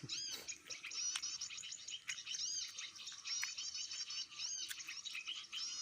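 Small birds chirping: rapid high-pitched short notes, each rising and falling, following one another closely throughout.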